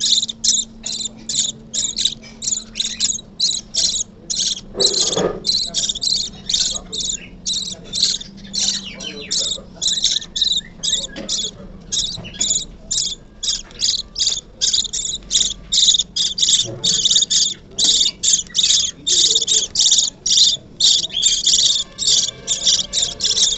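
Baby budgerigar chicks giving rapid, high-pitched begging cheeps, about two to three a second without a break, the food-begging calls of chicks being hand-fed.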